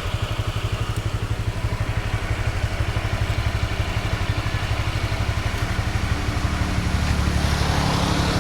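Motorbike engine idling with a rapid, even putter, growing somewhat louder and fuller about six seconds in.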